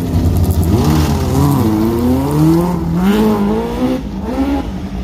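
Rally car engine revving as it drives slowly past: the pitch climbs over about two seconds, drops sharply about three seconds in, then rises and falls again in shorter blips.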